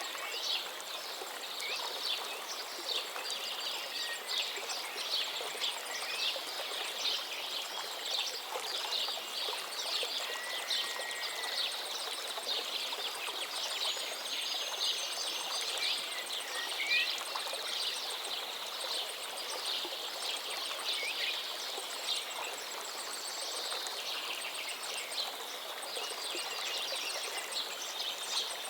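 A stream of running water makes a steady rush, overlaid throughout by many small birds chirping in quick, dense calls, with a few longer whistled notes.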